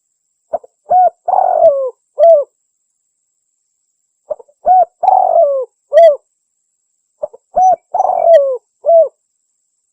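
Spotted dove (tekukur) cooing, played as a hunter's lure call: three identical phrases about three seconds apart, each a short note, a coo, a longer coo falling in pitch, and a last coo.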